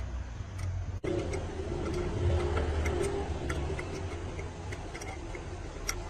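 Workshop noise: a steady low rumble with scattered light metallic ticks.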